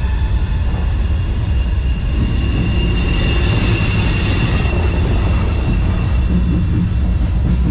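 Freight train rolling, heard from aboard a car: a steady heavy rumble, with a high ringing squeal of steel wheels that fades out about halfway through.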